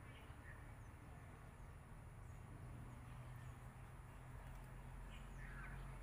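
Faint, scattered bird calls, a few short squawks and high chirps, the clearest near the end, over a steady low rumble.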